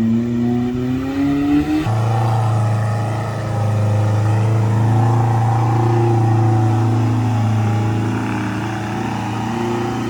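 Off-road 4x4's engine revving: the pitch climbs for about two seconds, then the note changes abruptly and holds steady under load.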